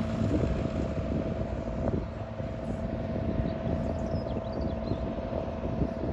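Vintage tractor engine running steadily under way, with a dense low rumble.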